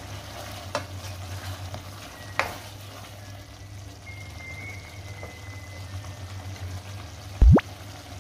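Beef and potato popiah filling sizzling and bubbling in a pan as it cooks down to dry the sauce, with a spatula stirring and scraping against the pan now and then. A single loud thump near the end.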